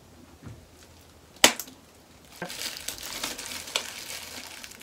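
Scissors snipping the tip off a plastic hair-dye applicator bottle: one sharp snip about a second and a half in, followed by a couple of seconds of crackling, rustling plastic handling.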